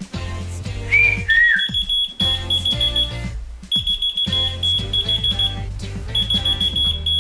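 A short whistle, then a whistle-activated key-finder keychain answering with rapid high-pitched beeping in three bursts of about two seconds each. Background music plays underneath.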